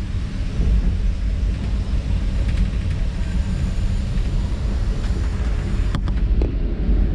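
Metre-gauge electric panoramic train of the Centovalli Railway running, a steady low rumble with wind buffeting the microphone. A single click comes near the end.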